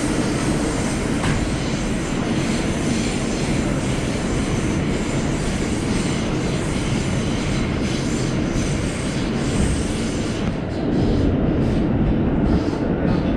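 Subway train running at speed, heard from inside the car: a steady rumble and rail noise from the wheels on the track. About two-thirds of the way through, the hiss thins out, the rumble gets a little louder, and a run of short clicks comes in.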